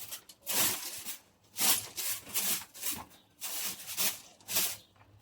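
Repeated scraping strokes as chicken droppings are cleared off the coop floor, coming in quick succession, one every second or less.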